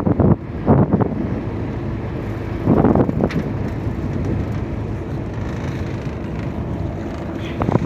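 Boat engine running steadily under way, with wind buffeting the microphone in gusts, loudest about three seconds in.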